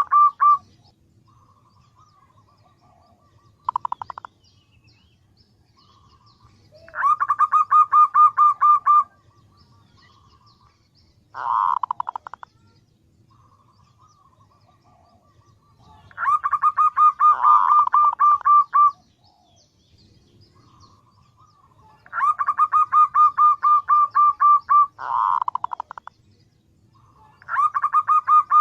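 Female zebra dove (perkutut) calling to attract males: bouts of quick, evenly spaced coo notes, each bout about two seconds long. The bouts come four times, with a few shorter bursts and quiet gaps between them.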